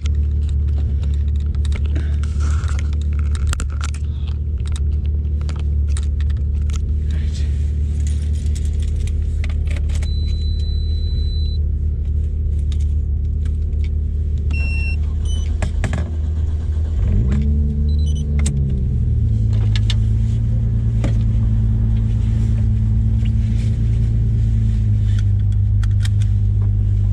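Nissan Skyline R33's straight-six engine idling, heard from inside the cabin, with scattered small clicks and rattles. About two-thirds of the way through the revs climb briefly, then settle at a steady, slightly higher idle.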